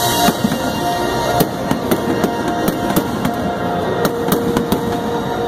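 Aerial fireworks exploding in an irregular string of sharp bangs, about two each second, with music playing underneath.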